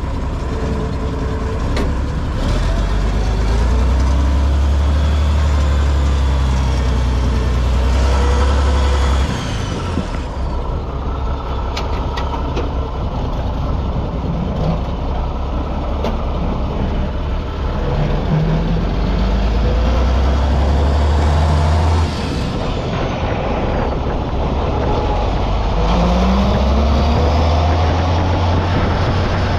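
Farm tractor engine running steadily under load with a deep drone that rises and falls several times as the revs change.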